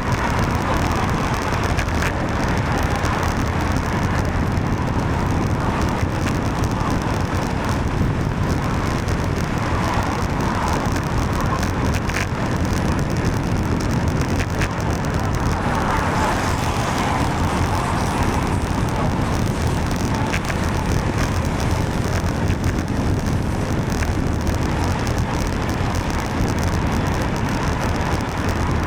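Steady road noise heard from a moving bicycle in the rain: wind rushing over the microphone and car traffic on a wet road, with no let-up.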